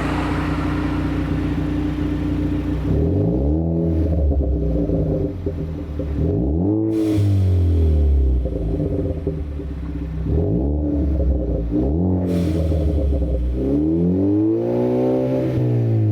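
Ford Focus ST's turbocharged 2.0-litre four-cylinder idling through a COBB cat-back exhaust, then free-revved four times, its pitch rising and falling with each blip; the last rev is held longest.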